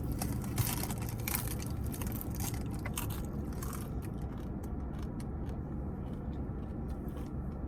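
Eating sounds: crinkling and clicking of fast-food packaging and chewing, busiest in the first few seconds and sparser after. A steady low rumble, typical of a car's interior, runs underneath.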